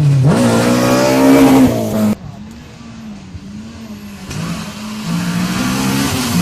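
Rally car engine at full throttle, its note rising sharply and held at high revs, then cut off abruptly about two seconds in. A quieter rally engine follows, rising and falling in pitch in quick repeated waves, then grows louder into a steady high-rev note as the next car comes on.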